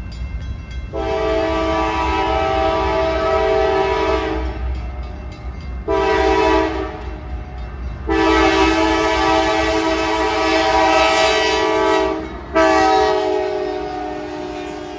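A CSX freight locomotive's multi-chime air horn sounding four blasts: a long one, a short one, another long one, and a final long blast that trails off. A steady low rumble of the approaching train runs beneath them.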